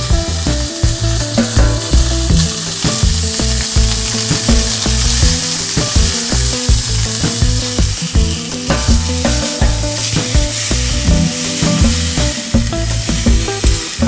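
Food frying in a hot pan: a steady sizzle, with background music playing underneath.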